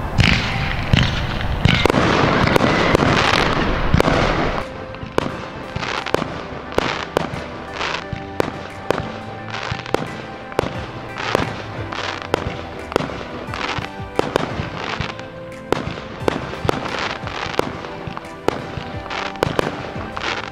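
Aerial fireworks going off, with a dense, loud stretch of bangs and crackle over the first four seconds or so. After that, music with a steady beat of about two a second plays over the fireworks.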